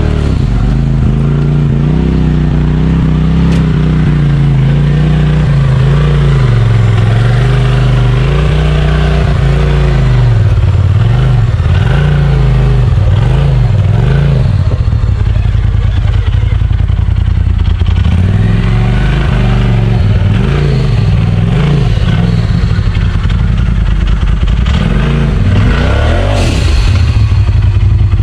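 Side-by-side UTV engine revving up and down again and again, with a sharper, higher rev near the end.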